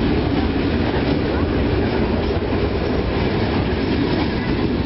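Freight train of gondola cars rolling steadily past a grade crossing: a continuous rumble and rattle of steel wheels on the rails.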